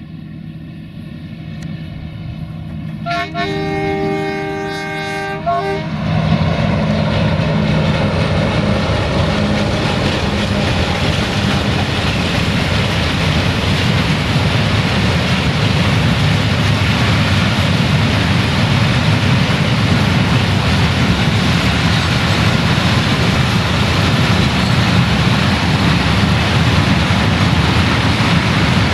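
An 060-DA (LDE2100) diesel-electric locomotive's Sulzer engine runs, growing louder as it approaches, and it sounds its horn for about three seconds a few seconds in. From about six seconds on, a long string of grain hopper wagons rolls past with loud, steady wheel and rail noise.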